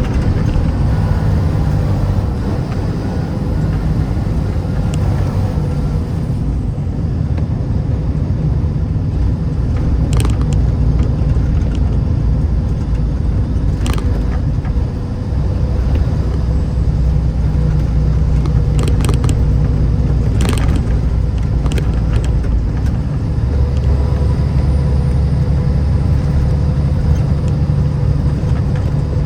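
Road vehicle driving, a steady low rumble of engine and tyres, with a few sharp clicks.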